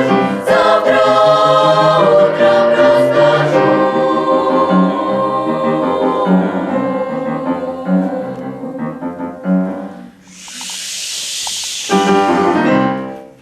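Children's choir singing in harmony, holding long chords. About ten seconds in the singing gives way to a two-second hiss, then a final sung chord that fades out.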